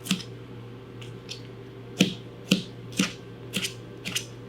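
Chef's knife slicing broccoli stems, the blade knocking on the cutting board with about eight sharp knocks, roughly two a second, some fainter than others.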